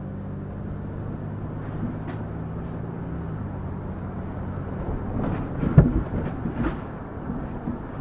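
Vehicle driving, heard from inside: a steady engine hum and road noise, then a run of rattling knocks with one loud thump about six seconds in.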